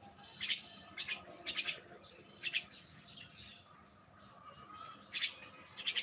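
A small bird giving short, sharp, high chirps, some in quick pairs or threes, with a pause of over two seconds midway.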